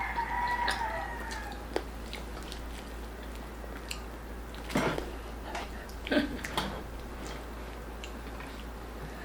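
Chewing and crunching of crispy lechon pork belly, with a few sharp crackles of the skin scattered through, the loudest about five and six seconds in. A held, slightly falling call trails off in the background at the very start.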